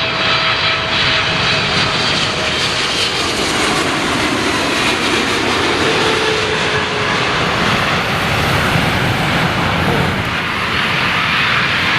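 Jet airliner's engines passing close by with a loud, steady rush. Faint whining tones in it slowly fall in pitch around the middle.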